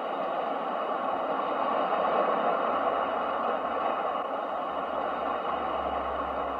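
Ocean waves, a steady wash of surf that swells gently about two seconds in and then eases off.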